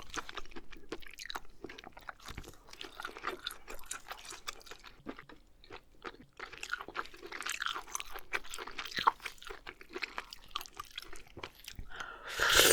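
Close-miked chewing of oysters: soft, irregular wet clicks and smacking mouth sounds. A louder, denser noise starts near the end.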